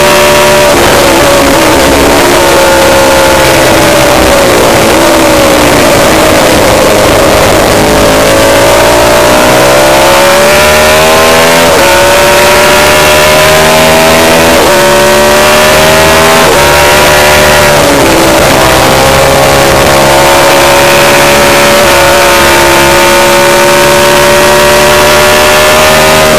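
Lightweight superbike racing motorcycle engine, loud throughout. Its pitch sinks for a few seconds, then climbs hard and drops sharply several times in quick succession as the rider shifts up through the gears, before holding at high revs.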